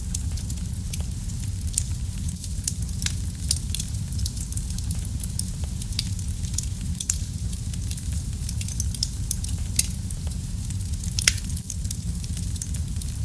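Wood fire burning in a fireplace: a steady low rumble of flame with frequent sharp crackles and pops from the burning logs, a few louder snaps standing out.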